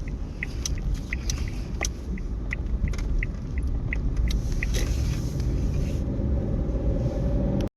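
Car's turn-signal indicator ticking, about three ticks a second, over steady road rumble inside the moving car; the ticking stops a little past halfway, as the turn for a U-turn is made.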